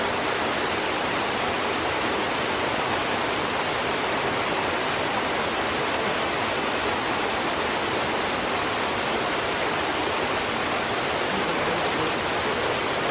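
Steady rush of a mountain waterfall or stream, an even hiss without breaks.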